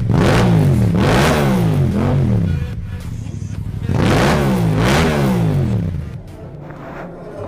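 Yamaha MT-07's parallel-twin engine through an Akrapovic exhaust, revved with quick throttle blips: a run of rising and falling revs, then after a short drop back to idle a second run about four seconds in, settling back to idle near the end.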